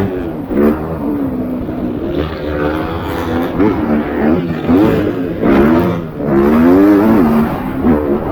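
MX2 motocross bike engines racing, revving up and down over and over as the throttle opens and closes, with a long, loud rev about three-quarters of the way in.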